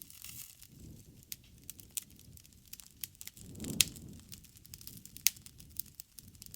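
Wood bonfire crackling: irregular sharp pops and snaps over a low rush of flame, with a louder pop about four seconds in as the flames swell.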